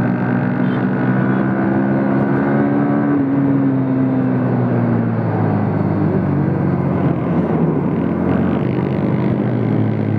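Motorcycle engine running while riding, heard from the rider's seat; its note drops about three seconds in as the bike eases off, then holds steady.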